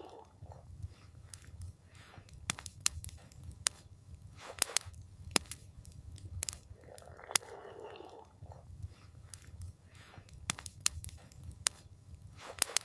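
Campfire crackling: irregular sharp pops and snaps from the burning wood over a steady low rumble of the flames, with a brief soft whoosh a little past the middle.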